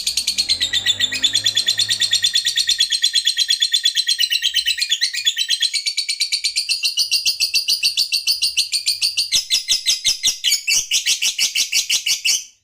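Lovebird singing a long, unbroken ngekek: a rapid, shrill chatter of repeated notes that runs on without pause and cuts off abruptly near the end.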